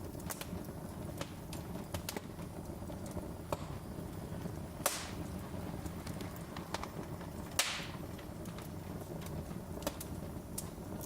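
Wood fire crackling: a steady low rumble under scattered sharp snaps, with two louder pops in the middle of the stretch.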